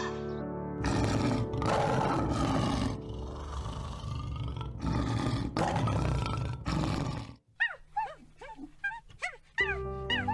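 A large animal roaring in four rough blasts over background music, then, after a brief drop, a string of short, high, rising-and-falling whines like a puppy whimpering.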